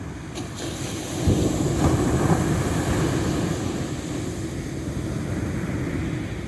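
Ocean waves: a wave breaks about a second in with a loud rushing surge, then washes out and slowly fades under a steady sea hiss.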